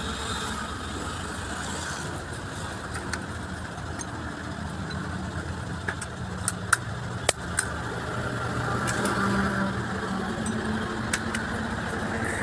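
A motor vehicle engine running steadily at idle, with a few sharp metallic clinks around the middle.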